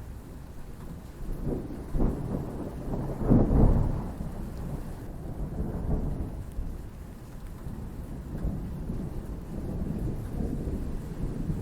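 Thunder rumbling over steady rain. It swells several times, with the loudest peal about three and a half seconds in, then rolls on more quietly.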